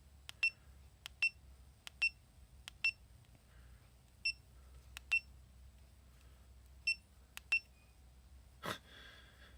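GoPro Hero 5 Session action camera beeping: about eight short, high beeps, each just after a faint button click, coming in uneven clusters. Near the end there is a brief rush of noise.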